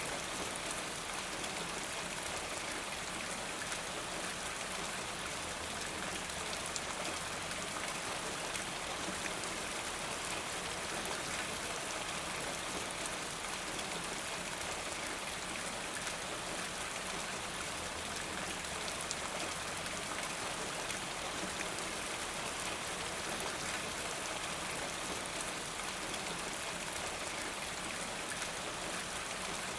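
Steady rain falling, with raindrops pattering on surfaces.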